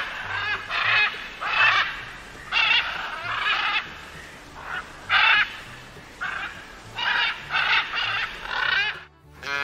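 Domestic waterfowl, geese or ducks, giving short nasal honking calls again and again, singly and in quick runs of two or three. The calls stop suddenly near the end.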